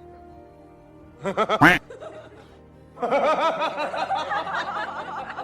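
Background music with a person laughing over it: a short burst of laughter about a second in, then quick repeated giggles from about three seconds in.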